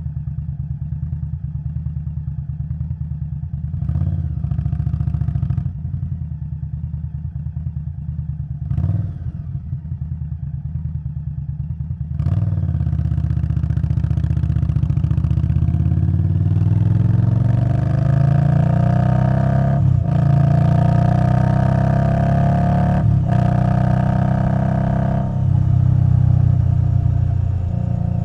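Indian Scout Bobber Twenty's V-twin through a Vance & Hines Twin Slash exhaust. It runs at a low, steady pulse with two brief swells, then picks up about twelve seconds in and accelerates with rising pitch. Two quick dips at the gear shifts follow, and it settles to a steadier note near the end.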